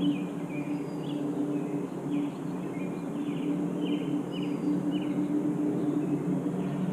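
Birds chirping in short, high calls repeated a couple of times a second, over a steady low hum.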